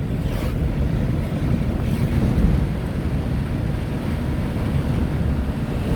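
Steady low rumble inside a Tata Nano's cabin while driving in the rain: the small car's engine and tyres on a wet road.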